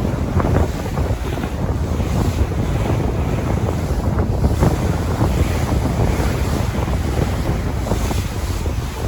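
Sea waves washing in a steady rush, with wind rumbling on the microphone.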